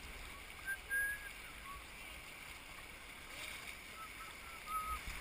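Creek water running steadily, with faint distant voices about a second in and again near the end.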